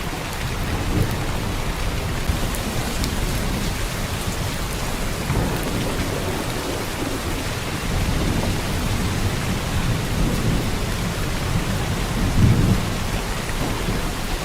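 Heavy rain pouring steadily. Deep low rumbles swell under it twice, the strongest about twelve seconds in.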